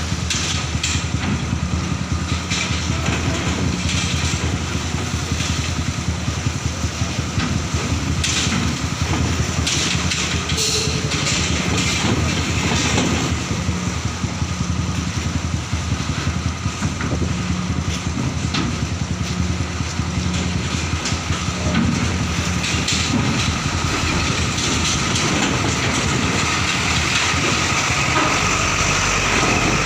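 Heavy trailer trucks' diesel engines running steadily as they drive off a ferry, with rattles and knocks scattered through.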